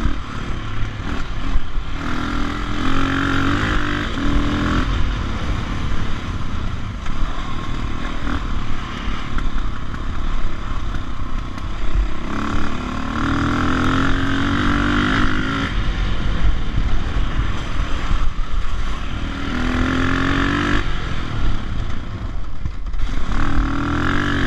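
Dirt bike engine running along a trail, with the throttle opened several times so the engine note climbs and then drops back, over a constant rumble.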